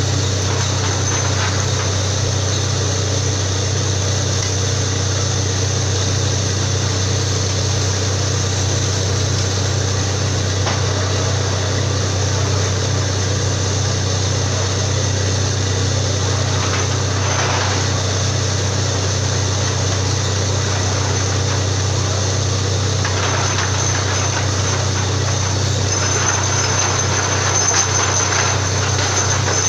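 Borewell drilling rig running steadily: a continuous, loud engine drone with a deep hum, and a rougher hiss that rises briefly past the middle and again over the last few seconds.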